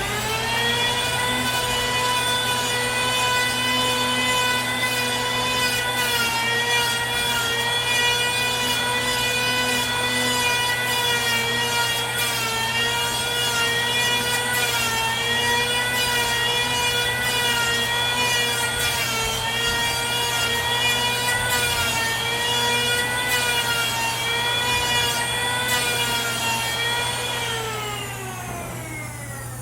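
An electric woodworking power saw cutting wood. It comes up to speed at the start, runs at a steady high whine with small dips in pitch as it bites into the timber, and winds down near the end.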